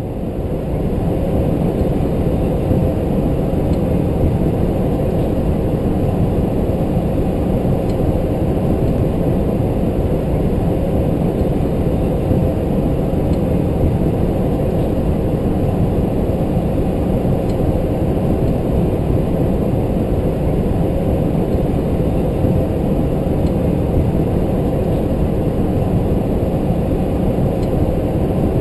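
Steady rumble of airflow and engine noise heard inside the flight deck of a McDonnell Douglas MD-11 airliner in flight, unchanging throughout.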